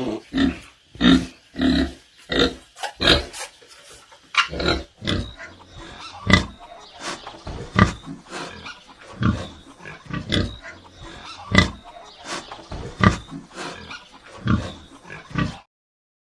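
An animal giving a run of short, low calls, about one or two a second, that stops shortly before the end.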